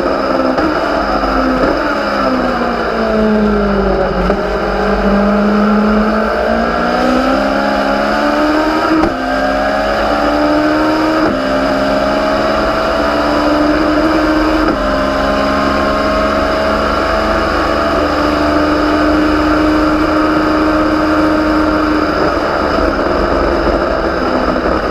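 Legends race car's Yamaha motorcycle engine under racing load: revs fall for about four seconds as the car slows, then climb hard with upshifts about nine, eleven and fifteen seconds in, then hold high and nearly steady at full throttle, over steady wind and road noise.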